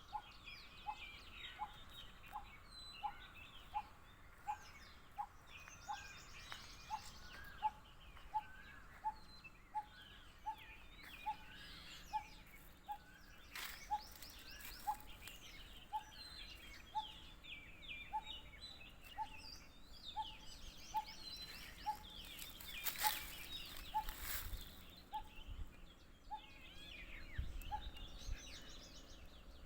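Wild birds calling in a morning chorus: one bird repeats a single short note evenly, about one and a half times a second, under a scatter of higher chirps and twitters from other birds. Two brief louder clicks come partway through.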